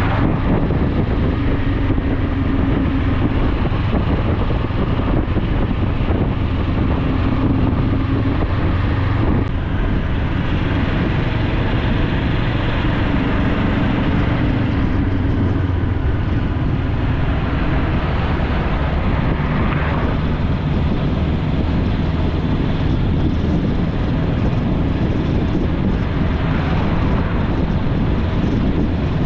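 Motorcycle engine running steadily while riding, with wind rushing over the action-camera microphone. The engine's pitch shifts a little now and then.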